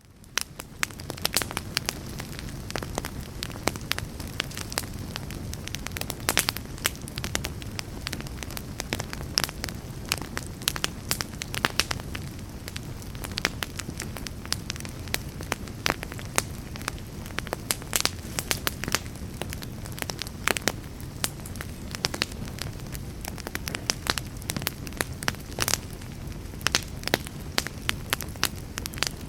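Campfire burning: a steady low rumble of flames with frequent sharp crackles and pops from the wood. The sound fades in over the first second.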